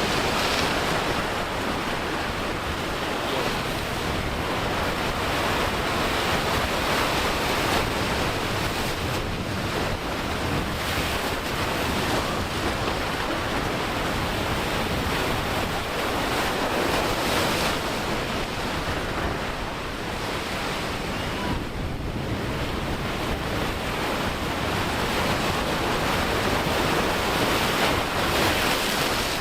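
Wind rushing on the microphone over breaking surf and churning water, a steady loud rush with no distinct engine note.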